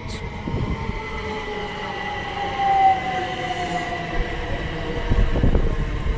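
c2c Class 357 electric multiple unit arriving and braking, its traction motors whining in a tone that falls steadily in pitch as the train slows. A low rumble grows louder near the end.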